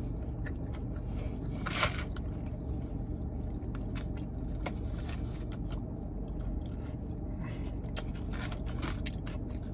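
Close-up chewing and biting sounds of a man eating fried food, with a few short clicks and scrapes of a fork in the food box, over a steady low hum.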